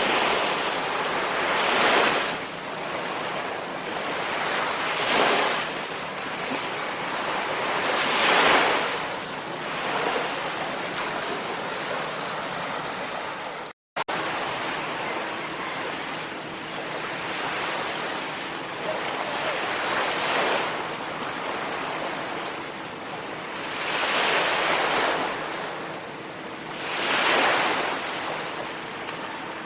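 Sea waves breaking on a shore, a steady surf hiss that swells with each breaker every few seconds. The sound cuts out for an instant about halfway through.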